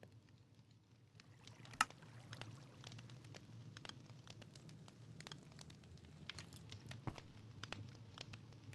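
A wood campfire crackling, with irregular sharp pops and snaps over a low steady rush, one pop louder about two seconds in.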